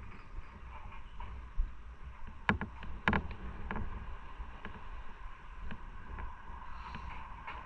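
Motorcycle ride sound: a steady low rumble of engine and road noise, with a few sharp clicks or knocks about two and a half and three seconds in.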